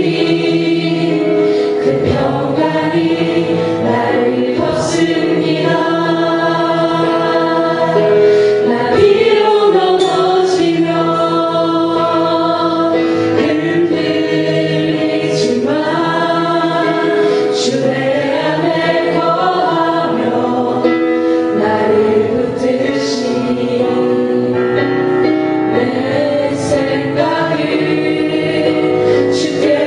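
Voices singing a Korean worship song together over music, in long held phrases.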